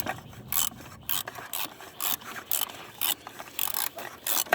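Oil filter housing cap being turned by hand, its threads scraping in short rasping strokes about two a second because the cap sits at an angle and won't catch.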